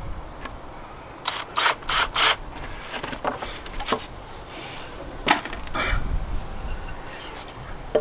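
Wood and tools knocking and scraping during fence work: four sharp knocks in quick succession, then scattered single knocks and rubbing.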